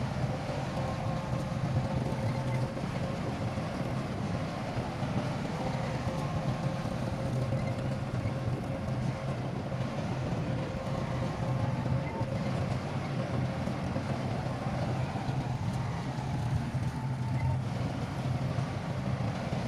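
Heavy diesel engine of earthmoving machinery running steadily, a low hum with a few steady tones above it.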